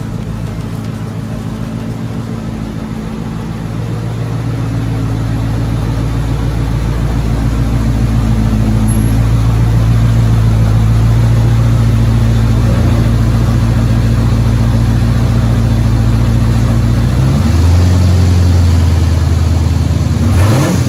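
1985 Corvette's 5.7-litre V8 running at a steady idle, growing louder over the first few seconds, then revved briefly near the end.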